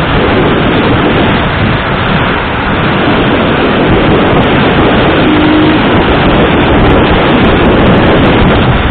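Steady, loud rush of wind on the microphone with the road noise of a moving vehicle.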